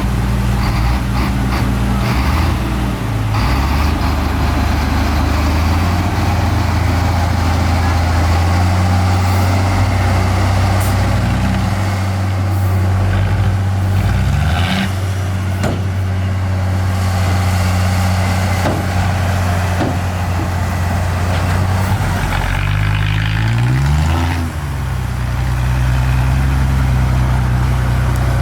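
Heavy diesel engines of earthmoving machinery running steadily under load, the engine note shifting, with two rising revs, one about halfway through and one near the end.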